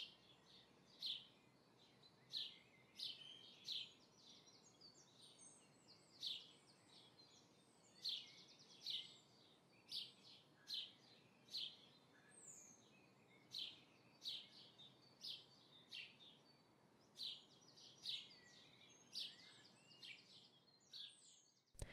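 Faint, repeated bird chirps, short high calls coming about one or two a second over a low hiss.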